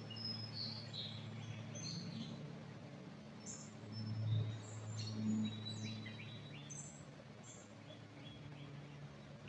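Small songbirds chirping and whistling in short, scattered calls, busiest in the first several seconds and thinning out toward the end, over a steady low background hum.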